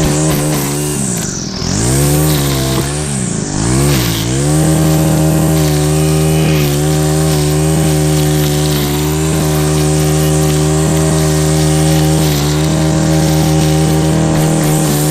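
Engine running hard at a high, steady speed. Its pitch sags and recovers twice in the first few seconds, as if briefly loaded, then holds steady.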